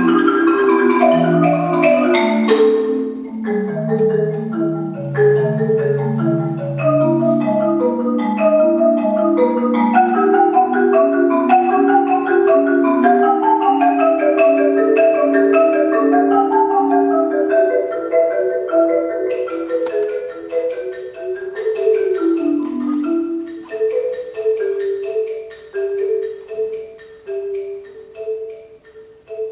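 Marimba playing a busy passage of quick struck notes across several pitches; near the end it thins to a single note repeated softly and fades.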